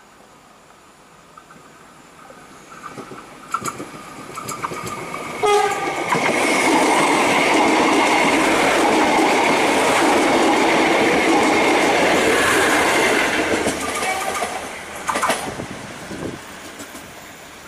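KA Bandara YIA airport train passing close by: wheels clacking over the rail joints as it nears, a short horn blast about five seconds in, then a loud steady rush of wheels and carriages for about eight seconds, ending with a few more clacks as it fades.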